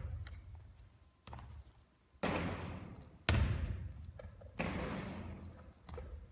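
Basketball bouncing on a gym court during shooting practice: about five separate thuds a second or so apart, each with a long echo fading after it.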